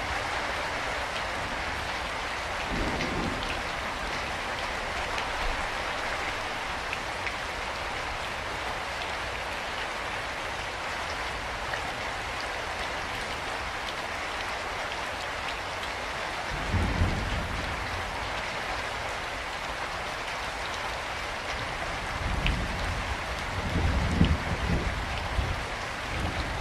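Steady rain falling with a dense patter. Low rumbles rise under it a few times, most strongly about two-thirds of the way through and again near the end.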